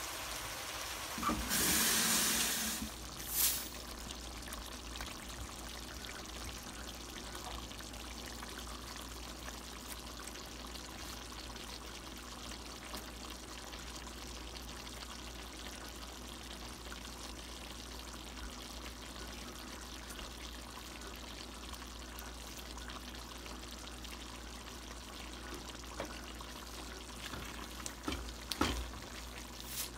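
Chicken curry simmering and sizzling steadily in a pot on the stove, with a louder rushing burst about two seconds in and a sharp click just after. Near the end a wooden spoon knocks a few times in the pot as the curry is stirred.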